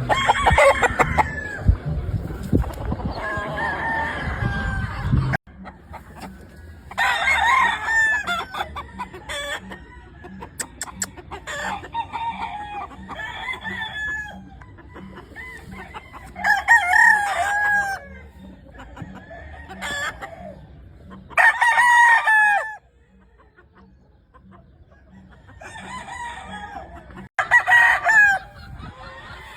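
Gamefowl roosters crowing one after another, about seven crows a few seconds apart, with some clucking between them. A loud low rumble under the first five seconds cuts off suddenly.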